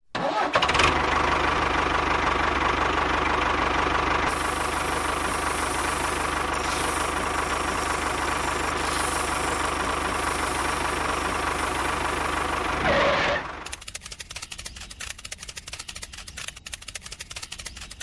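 An engine or motor running steadily, starting abruptly and cutting off about thirteen seconds in to a quieter, rapid crackling rattle.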